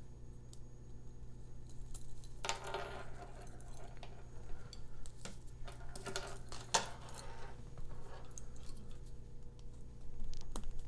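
Scattered small clicks, taps and rustles from handling the lavalier microphones and their clips on a stereo mounting bar, heaviest about two and a half seconds in and again around six to seven seconds, over a steady low electrical hum.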